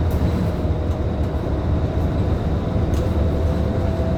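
Scania K310IB city bus heard from inside the cabin: a steady low engine and road rumble from the rear-mounted engine, with a faint thin whine that rises slightly about three seconds in.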